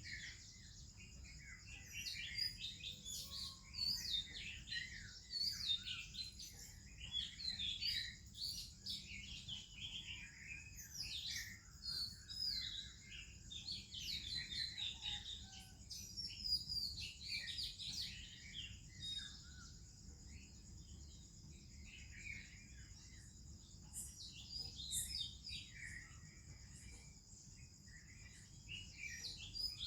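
Oriental magpie-robin and other birds singing, with many overlapping whistles, warbles and quick chirps. Underneath is a steady high hiss and a low rumble.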